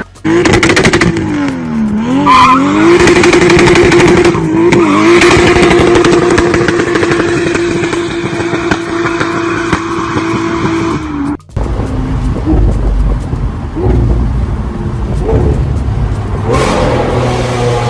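Loud car engine and exhaust revving: the pitch dips and climbs, then holds steady at high revs for several seconds. After a sudden cut, a lower rumble with sharp crackles and pops follows, with another rev rising near the end.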